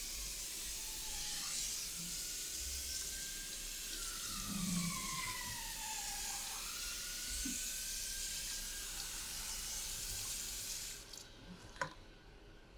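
Water running steadily from a barber's wash-basin tap, with a faint whistle that slides down in pitch and then levels out. The water is shut off abruptly about eleven seconds in, followed by a single sharp click.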